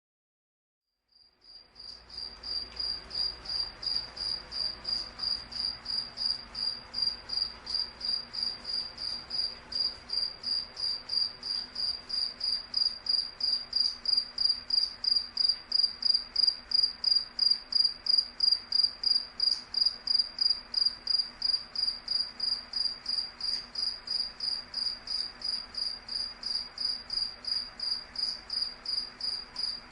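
A cricket chirping in an even, high-pitched rhythm, about three chirps a second, starting about a second in after silence and quickly reaching a steady level.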